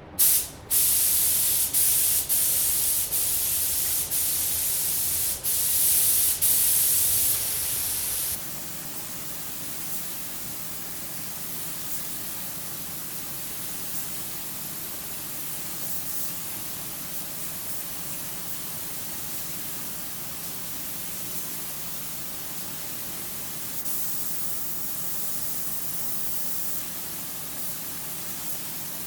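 Compressed-air paint spray gun spraying clear coat, a loud hiss in several passes with short breaks where the trigger is released. After about eight seconds the spraying stops and a quieter steady hiss carries on.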